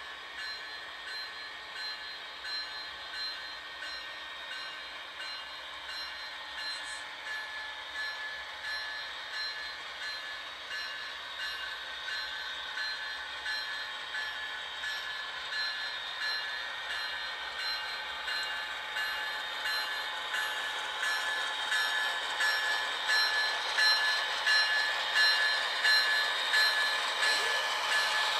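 A railway warning bell ringing over and over in a steady rhythm, growing steadily louder.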